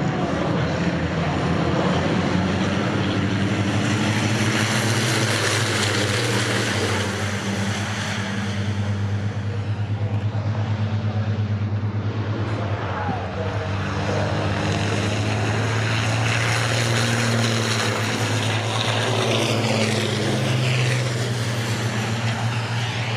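Race trucks' diesel engines running on the circuit, a steady low drone that swells twice as trucks pass.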